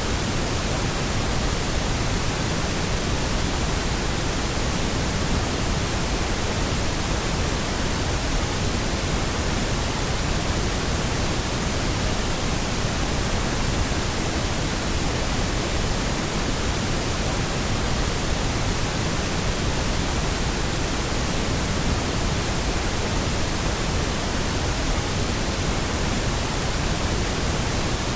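Steady, unchanging pink noise: an even hiss spread across all pitches with no tones or events, generated as a sleep and masking sound.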